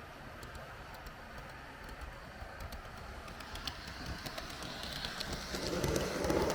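H0 scale model train running along the track, a steady rolling rumble with scattered light ticks from the wheels over rail joints. It grows louder over the last two seconds.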